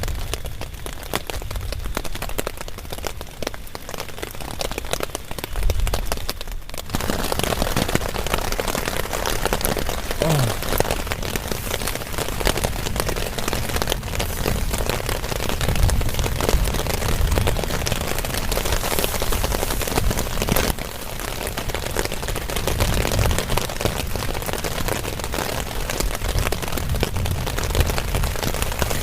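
Heavy rain falling steadily as a dense hiss of drops, with a low rumble coming and going underneath. The rain grows suddenly louder about seven seconds in.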